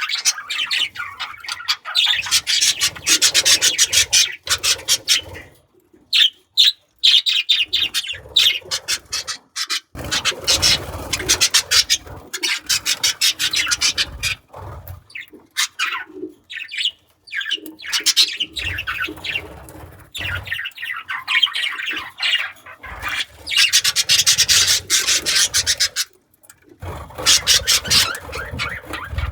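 Budgerigars chattering and warbling in long raspy spells broken by a few short pauses.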